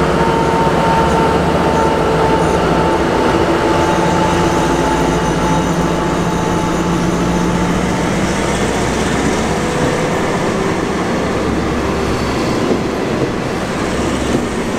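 Alsthom diesel-electric locomotive running with a steady engine drone that fades over the first half as it draws away, followed by passenger carriages rolling past with a rumble of wheels on the rails and a couple of clicks over rail joints near the end.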